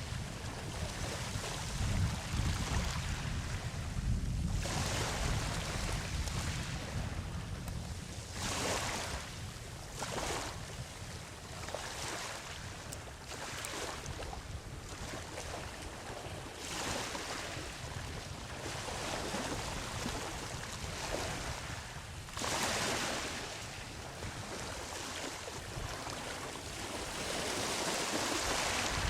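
Ocean waves breaking and washing up a beach in a steady series of surges, the biggest one breaking about three-quarters of the way through, with low wind rumble on the microphone.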